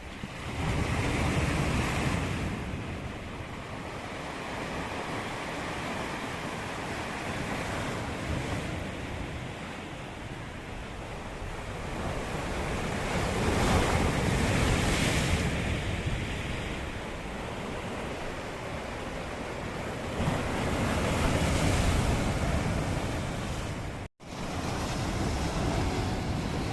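Sea waves washing onto the shore, swelling and easing, with a few louder breakers. Wind buffets the microphone throughout.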